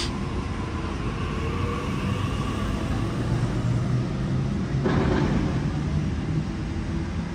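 Sydney Trains electric train at the platform, running with a steady low rumble and faint motor tones that slowly shift in pitch. A short hiss comes about five seconds in.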